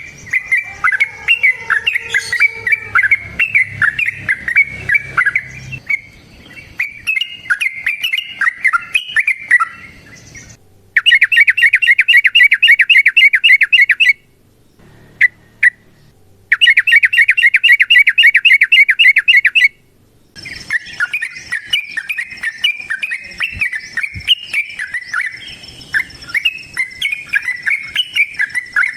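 Yellow-vented bulbul (trucukan) calling in long, fast chattering trills. In the middle come two loud runs of rapid, evenly repeated notes, separated by a near-silent pause of a couple of seconds with a few single chips; a faint steady high insect-like tone sits under the calls near the end.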